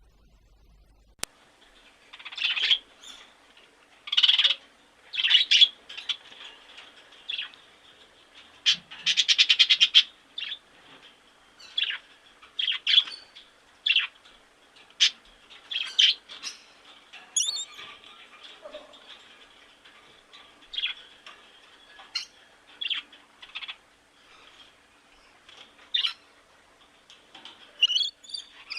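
A bird calling: a long string of short, sharp chirps and squawks at irregular intervals, with a fast rattling trill about nine seconds in.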